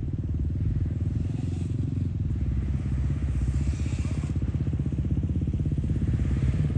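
A steady low mechanical rumble with a rapid, even pulse, growing a little louder near the end.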